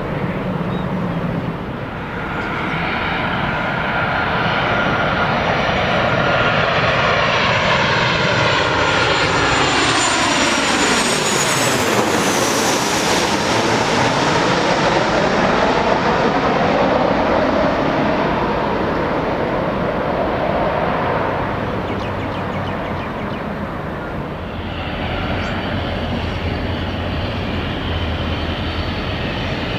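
Jet airliner passing low overhead on landing approach: the engine noise builds, peaks about twelve seconds in with a high whine sliding down in pitch, then fades. Engine noise rises again near the end.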